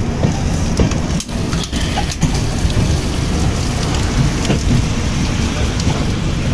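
Heavy rain pouring down, with a steady low rumble underneath.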